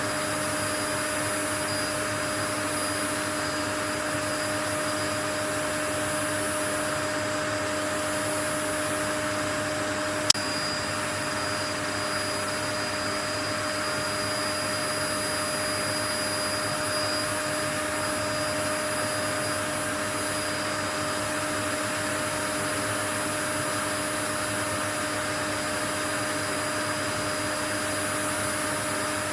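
Steady, unchanging white-noise hiss with a few faint steady hum tones under it, like a running motor appliance; a single sharp click about ten seconds in.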